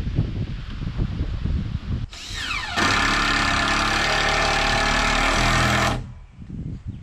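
Handheld power tool motor with a rising whine about two seconds in, running steadily for about three seconds, then stopping abruptly. Before it come low, irregular knocks and handling sounds.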